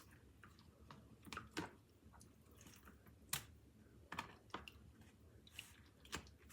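Faint, scattered clicks and smacks of hands spreading mustard over a raw brisket, about seven in all, the sharpest about a third of the way in.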